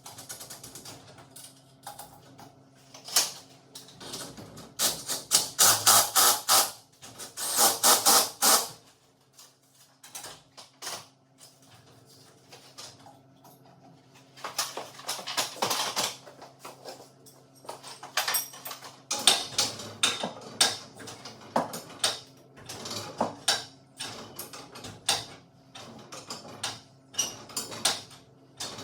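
Hand tools at work on garage door hardware: several runs of rapid metallic clicking, like a ratchet wrench being worked, with scattered single knocks between them.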